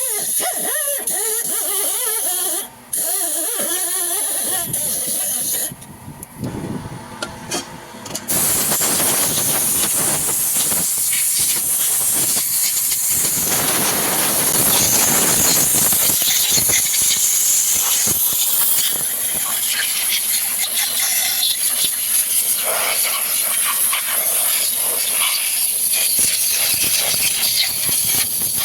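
High-pressure spray hissing against a Toyota Fortuner's 2TR engine bay during engine cleaning. It comes in short bursts at first, then runs continuously and louder from about eight seconds in.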